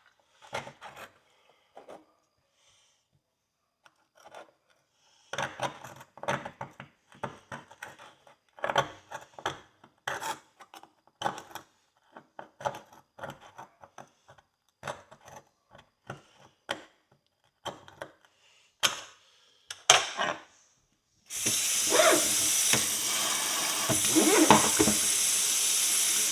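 Metal pick scraping and scratching caked dirt off an old steel pony horseshoe in short, irregular strokes. About three-quarters of the way through, the scraping gives way to a steady rush of water running from a tap.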